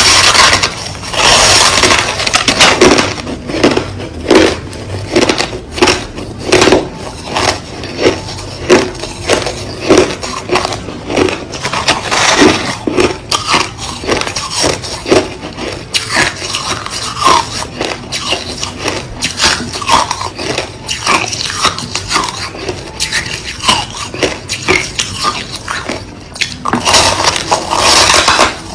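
White crushed ice being bitten and chewed close to the microphone: a steady run of crisp crunches, about one or two a second, with longer, louder crunching about a second in and again near the end.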